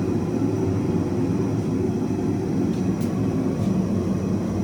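Gas forge burner running with a steady, low rushing noise while the steel heats. Two faint light clicks come about three seconds in.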